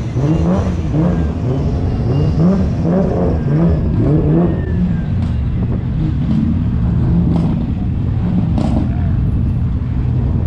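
A car engine revving up and down in quick repeated surges, then running more steadily, with a few sharp clicks over it in the second half.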